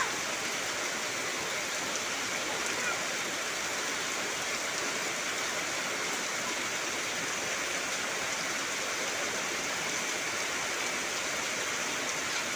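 Heavy rain falling steadily, an even dense hiss with no letup.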